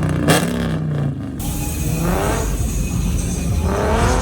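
A car engine revving over a steady low rumble, its pitch climbing twice: once about two seconds in and again near the end.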